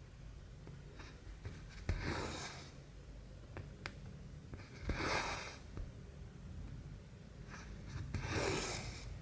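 Cotton embroidery thread pulled through cross-stitch fabric, three brief rasping pulls about three seconds apart, with light ticks of the needle between them.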